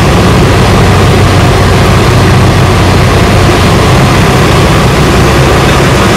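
Comco Ikarus C42 microlight's engine and propeller running steadily, a loud, even drone that does not change.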